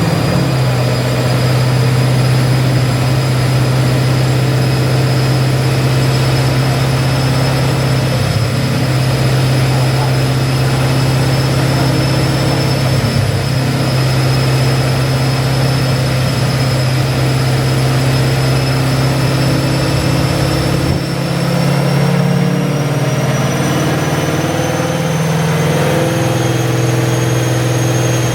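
Car engine running at a steady raised speed with a thin high whine that slowly rises in pitch; the engine note changes about 21 seconds in.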